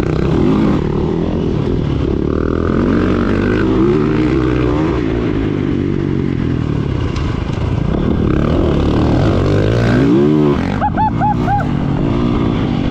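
Four-stroke dirt bike engine running while being ridden, its pitch rising and falling with the throttle. About eleven seconds in there is a quick run of four short rising-and-falling blips.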